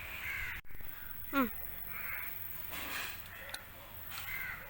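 Crows cawing, several short caws with a louder falling call about a second in.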